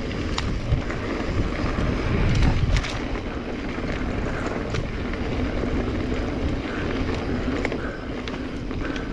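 Mountain bike riding over a dirt trail: steady tyre rumble and wind on the chest-mounted microphone, with scattered sharp clicks and rattles from the bike and a heavier rumble about two seconds in.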